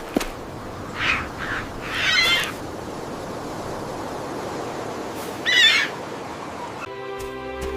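Several short, wavering bird calls, the loudest a little after two seconds and again about five and a half seconds in, over a steady hiss of outdoor ambience. Music comes in near the end.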